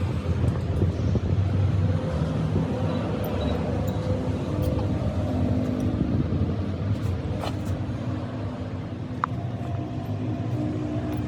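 An engine running steadily with a low, even hum, with a few light knocks over it.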